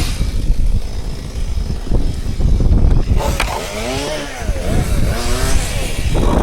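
Chainsaw engine revving up and down several times, its pitch rising and falling, over a steady low rumble.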